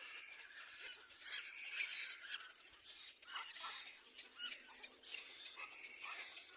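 Nestling birds squeaking and calling in irregular, high-pitched bursts, with a few louder sharp cries.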